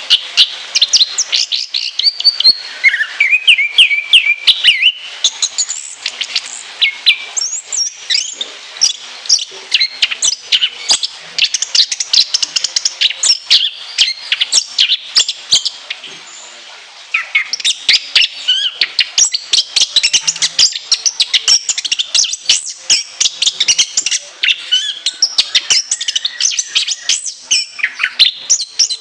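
Chestnut-capped thrush (anis kembang) singing a long, continuous song of rapid, shrill high notes strung with mimicked phrases. It breaks off for about a second a little past halfway, then resumes just as fast.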